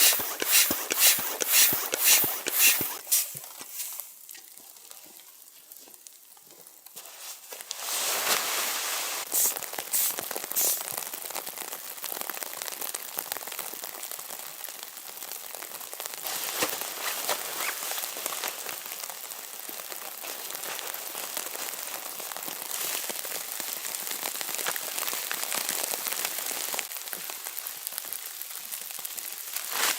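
A run of quick, even strokes, about two a second, stops about three seconds in. After a short lull, a steady crackling hiss sets in and carries on.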